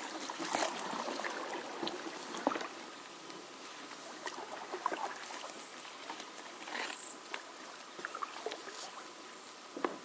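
Kayak paddling: paddle strokes splashing and water trickling off the blades, with a few scattered small knocks.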